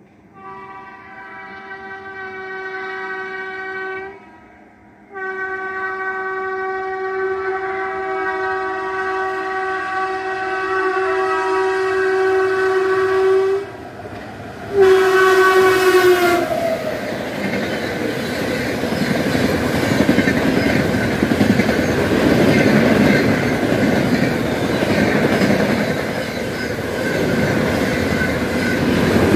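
Indian Railways locomotive horn sounding three blasts as a train approaches at speed: one of about three seconds, a long one of about eight seconds, then a short one that falls in pitch as the locomotive passes. The coaches then rush through with a loud, steady rumble of wheels on rails.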